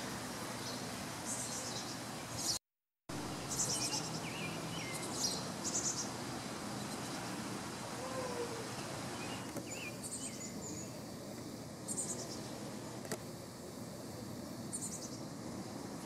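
Small birds chirping: short high chirps every second or two over a steady outdoor hiss, with a brief cut to silence about three seconds in.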